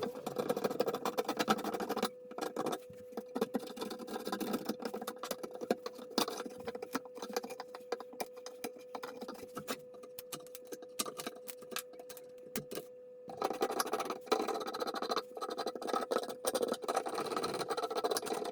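Woodworking handwork: many small taps, clicks and scrapes on wood over a faint steady hum. The taps thin out in the middle and grow busy again near the end.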